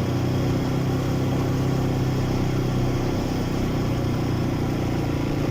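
Quad bike (ATV) engine running at a steady speed while riding, a constant drone.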